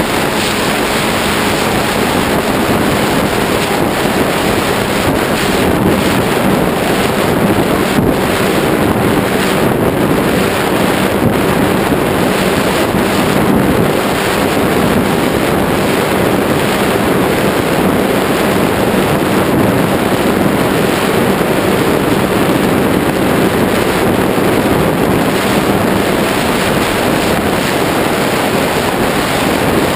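Loud steady wind rush buffeting the microphone of a GoPro on a Ritewing Zephyr II RC flying wing in flight, with a faint steady hum from its motor and propeller underneath.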